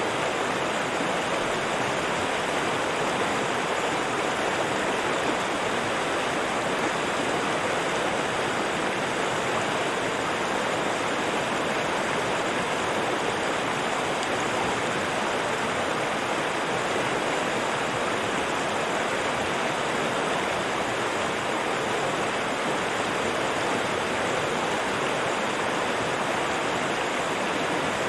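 River water rushing and burbling steadily over rocks.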